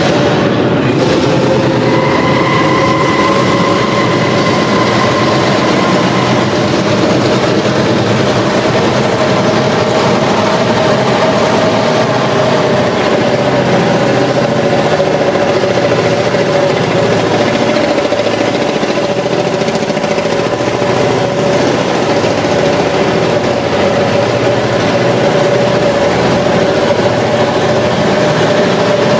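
Marshall tractor engine running steadily at a constant speed, with a steady whine over the engine noise.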